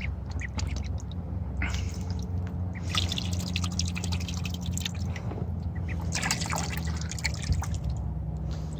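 Ducklings paddling and dabbling in bath water: small splashes and drips in clusters over a steady low hum.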